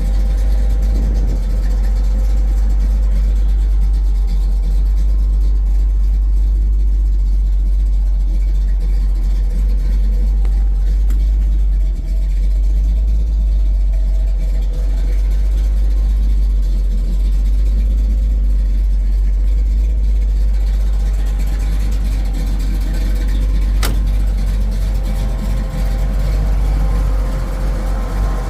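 1968 Pontiac Firebird running, a steady engine and low rumble with no revving. A single sharp click comes late on.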